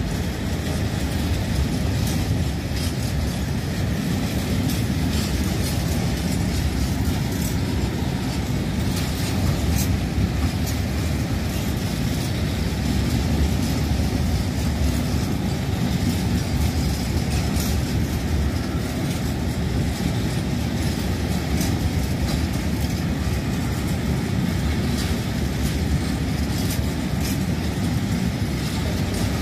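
Freight train of tank wagons rolling past close by: a steady rumble of wheels on rails with scattered clicks from the wheels crossing rail joints.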